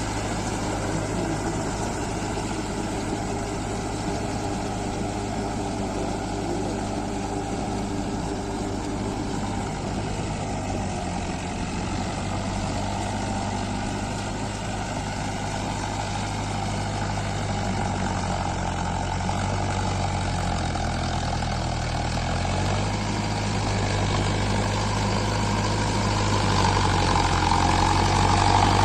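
Mahindra Arjun Novo 605 4WD tractor's diesel engine running steadily. Its pitch shifts a little past the middle, and it grows louder near the end.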